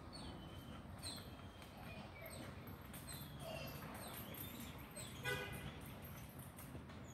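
Birds chirping in short falling notes, with one short yelp from a puppy about five seconds in.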